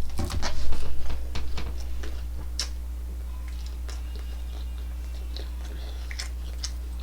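Close-miked chewing of chicken nuggets: a quick run of wet mouth clicks and squelches, busiest and loudest in the first two seconds, then slowing to occasional clicks. A steady low hum runs underneath.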